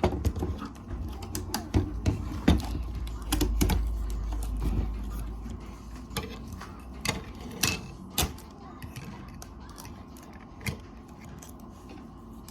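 Plastic toy parts and packaging being handled and pulled at: irregular clicks and knocks, busiest in the first half, with a low rumble a few seconds in.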